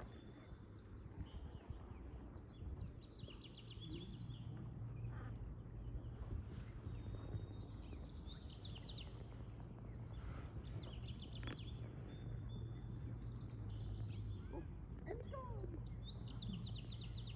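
Small songbirds singing short, rapid trilled phrases that repeat every few seconds, over a low steady rumble.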